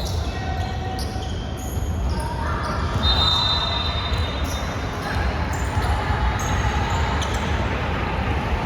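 Basketball game sounds: a ball bouncing on the court, with voices in the background.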